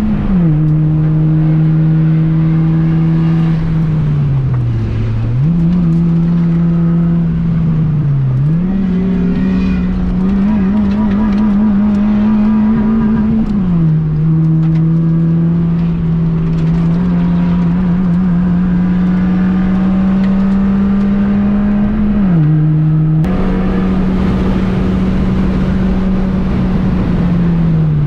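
Honda Fit's 1.5-litre four-cylinder engine running hard on a race track, heard from on board. The engine note climbs and drops suddenly at the gear changes, and it dips lower twice where the car slows.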